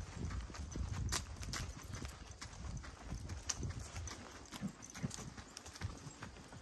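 Steps on hard ground: irregular sharp clicks over a low rumble.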